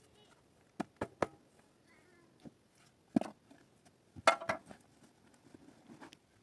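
A series of sharp, irregular knocks and clicks: three quick ones about a second in, a loud knock near the middle, a louder cluster a little later, and fainter taps near the end.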